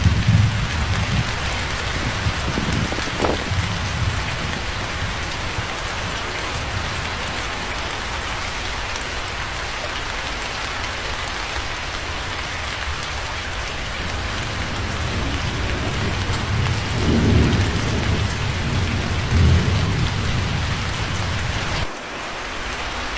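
Steady heavy rain falling, with low rolling rumbles of thunder near the start and again about three-quarters of the way through. Near the end the rumble cuts out abruptly and the rain dips briefly before carrying on.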